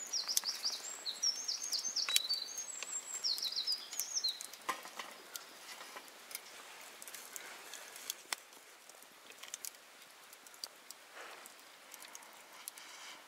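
A bird singing a quick run of short, high chirping notes for the first four seconds or so, over scattered sharp clicks and a quiet outdoor background.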